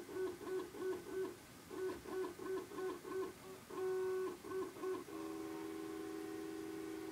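Stepper motors of a homemade CNC milling machine whining through a string of short, rapid moves, about four pulses a second with brief pauses between. About 5 s in, the whine turns into one steady two-tone hum as the axes make a continuous move.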